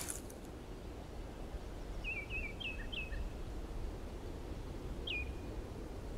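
Quiet outdoor ambience with a steady low background noise and a small bird chirping: a quick run of four short falling chirps about two seconds in, and one more chirp about five seconds in.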